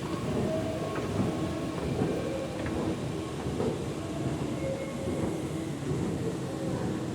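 A train running, heard as a steady, dense rumble with a few faint held tones over it.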